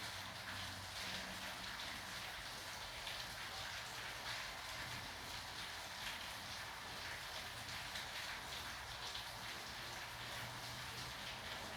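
Steady rain falling: an even hiss made of many small drop impacts.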